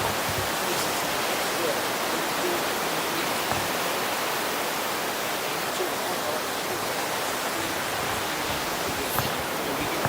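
Sea surf washing onto the beach, a steady rushing noise.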